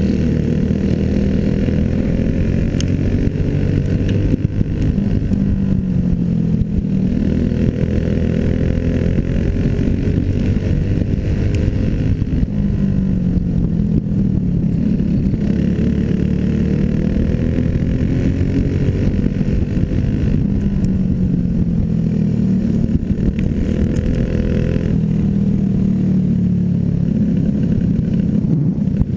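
Small single-cylinder clone racing engine running at race pace, its pitch climbing and dropping in a repeating cycle about every four to five seconds as it accelerates and backs off.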